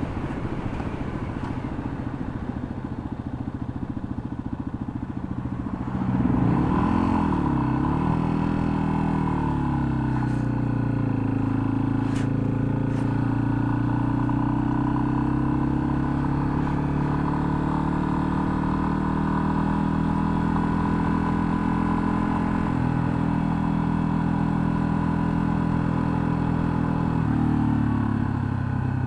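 Yamaha XT250's single-cylinder four-stroke engine idling, then pulling away about six seconds in, its pitch rising and dipping through a gear change before it settles into steady running. Near the end the pitch drops as it eases off.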